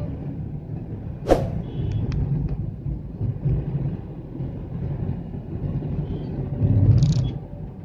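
Steady low road and engine rumble of a moving Hyundai Xcent, with a sharp knock about a second in and a louder rush of noise near the end.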